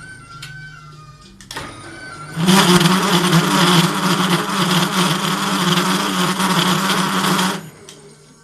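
Metal lathe taking a cut: after a quieter running hum, the tool bites in about two seconds in and gives a loud, harsh cutting noise with a steady low hum through it for about five seconds, then stops abruptly near the end.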